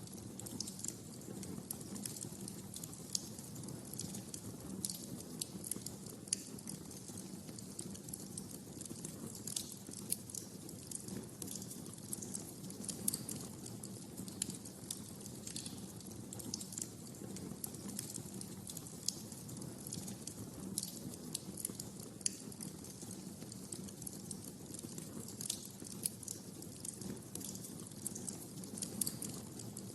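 Wood fire crackling in a fireplace: irregular sharp snaps and pops over a steady low background noise.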